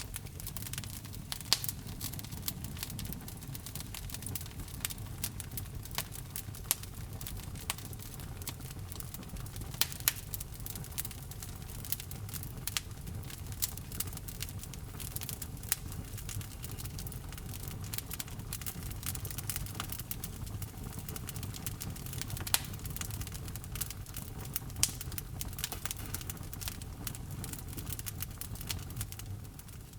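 Wood fire burning in a fireplace: a steady low rumble of flames with frequent crackles and sharp pops from the burning wood, a few of them louder than the rest.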